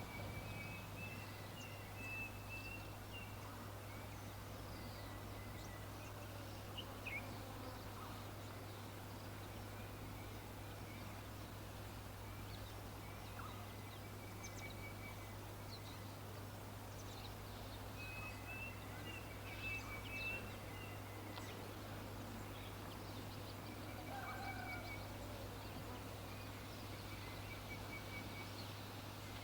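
Birds calling faintly: short high trills recur several times, with scattered chirps between them, over a steady low hum and background hiss.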